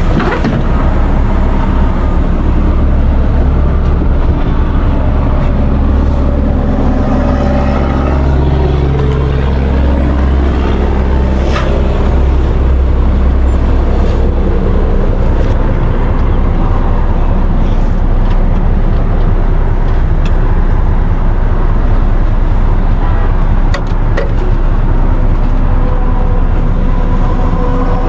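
A large vehicle's engine running steadily with a deep hum, its pitch sliding down over several seconds in the first half.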